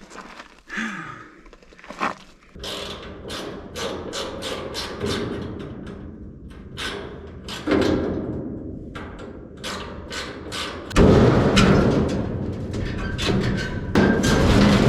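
Irregular knocks and clanks of sheet metal and tools as an old furnace is taken apart. About eleven seconds in, a loud, continuous scraping noise starts suddenly and runs on.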